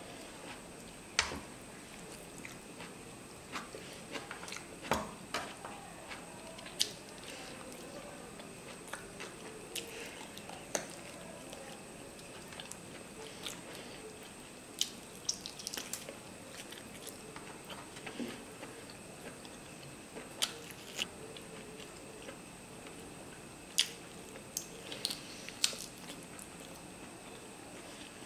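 Close-miked chewing and wet mouth smacks of someone eating rice and mutton curry by hand, with irregular sharp clicks scattered throughout.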